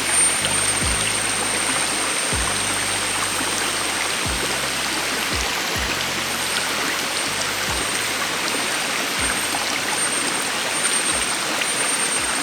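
Steady rush of stream or waterfall water, with lofi hip-hop background music under it: a low bass line and soft kick-drum thuds.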